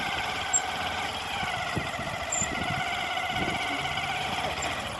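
A vehicle engine running steadily with a high, wavering whine, with a few low thumps.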